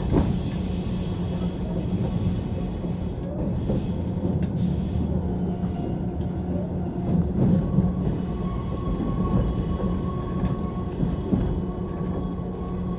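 Running noise heard inside a JR 185-series electric train carriage: a steady rumble of wheels on rail with a constant low hum and a few sharp knocks. A thin steady tone comes in about eight seconds in.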